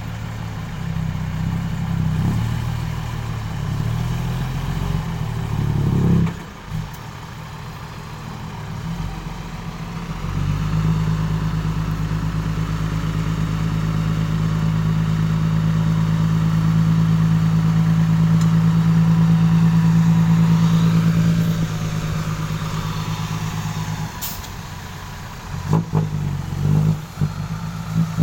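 Six-wheel dump truck's diesel engine running, with uneven revs at first, then held at a steady high speed for about thirteen seconds in the middle before easing off, and choppy, uneven revving near the end.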